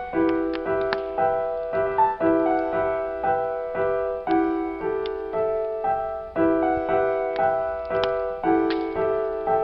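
Slow, gentle solo piano playing a repeating pattern of broken chords, each note ringing out and fading, with faint crackling of burning firewood under it.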